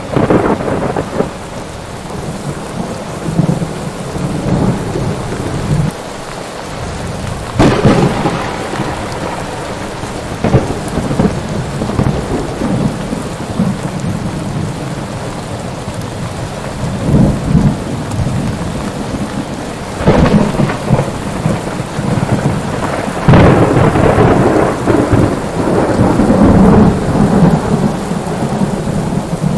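Thunderstorm: steady heavy rain with repeated thunder, sudden cracks about 8, 20 and 23 seconds in, each rolling off in a long rumble, the loudest near the end.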